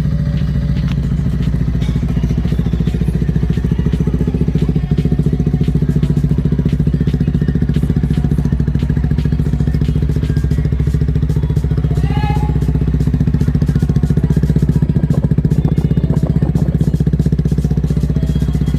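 TVS Apache RTR 160 4V's single-cylinder four-stroke engine idling steadily just after a cold start, through an aftermarket Akrapovic exhaust. A brief rising chirp about twelve seconds in.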